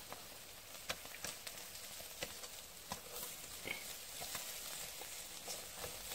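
Fish sizzling on a grill rack over glowing embers in a fireplace, a faint steady hiss with scattered crackles and small clicks.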